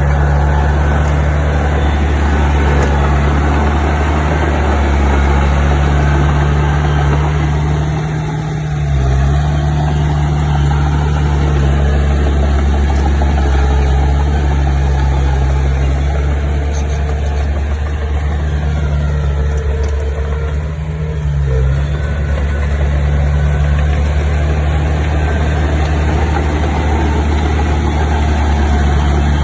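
Heavy construction machine's diesel engine running steadily with a low drone, its note dipping briefly twice, about nine and twenty-one seconds in.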